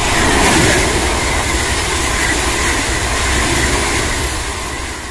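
Passenger train passing close by at speed: a steady rush of wheels on rail over a low rumble, fading near the end.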